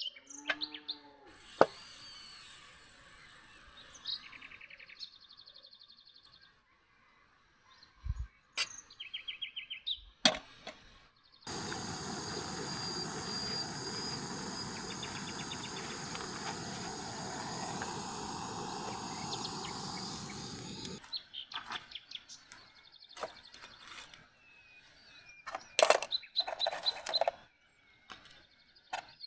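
Birds chirping in short calls, broken in the middle by about nine seconds of steady rushing noise that starts and stops abruptly. Scattered clicks and knocks follow near the end.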